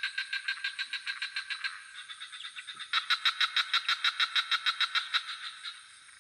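Frogs calling in a chorus of rapid pulsed croaks, about eight pulses a second, in long runs; a louder run starts about three seconds in and fades out near the end. A steady, thin, high-pitched hum of insects runs underneath.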